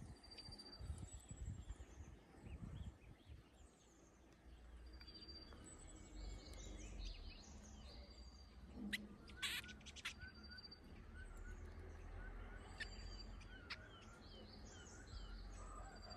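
Small songbirds chirping faintly: scattered short high notes, many falling in pitch, with a few brief steady whistles. A couple of sharp clicks come about nine to ten seconds in.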